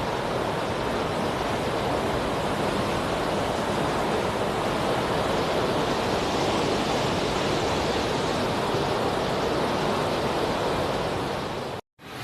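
Steady noise of strong cyclone wind, even and unbroken, cutting off abruptly near the end.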